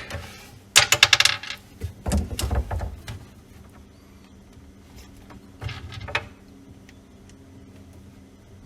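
Small parts of a compression fitting clicking and rattling as they are handled and fitted onto plastic water tubing: a loud spell of rapid clicks about a second in, another just after two seconds, and a shorter one near six seconds.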